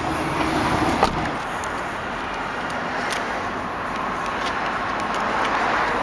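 Steady motor-vehicle noise, with a single sharp knock about a second in.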